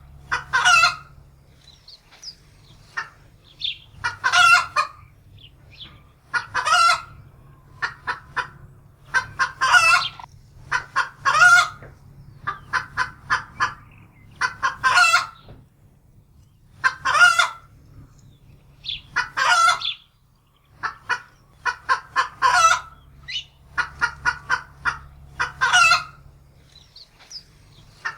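Domestic hen cackling in alarm. Runs of quick clucks each end in one long, loud squawk, and the pattern repeats every two to three seconds.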